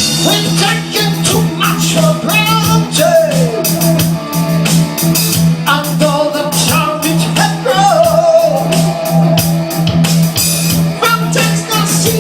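Rock band playing, with sung vocals over drums and cymbals.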